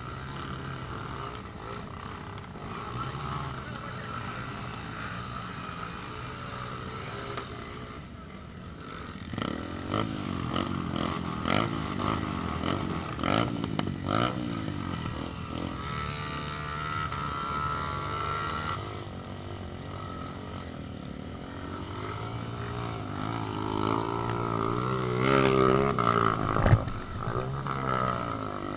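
A vehicle engine running, its revs rising and falling, with a run of sharp rattling knocks in the middle.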